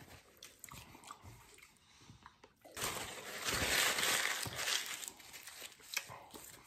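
A man chewing a mouthful of breakfast burrito, close to the microphone, with small wet mouth clicks. About three seconds in comes a louder, hissing stretch lasting about two seconds, then quieter chewing again.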